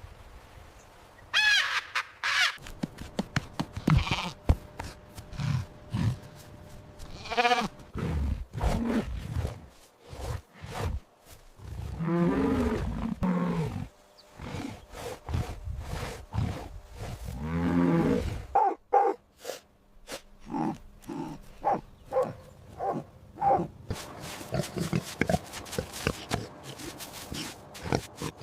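A series of recorded animal calls, most likely livestock such as goats or sheep: several drawn-out calls spaced a few seconds apart, then a quick run of short calls through the second half.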